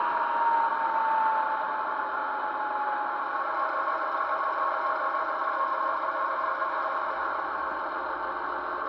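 Märklin 39200 H0 model of the DR class 120 'Taigatrommel' diesel locomotive playing its digital sound: the recorded two-stroke diesel engine running steadily with a rattle, thin and without bass through the model's small loudspeaker. A whine falls in pitch over the first few seconds.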